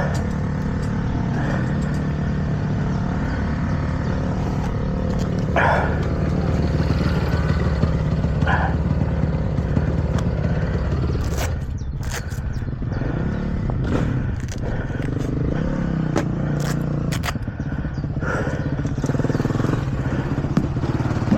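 Pit bike engines running, a continuous motorcycle drone that wavers slightly, with scattered clicks and clatter in the second half.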